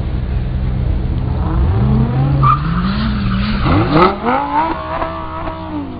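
A sports car's engine revving hard: the pitch climbs about two seconds in, dips, climbs sharply again near the middle, holds briefly, then falls away near the end.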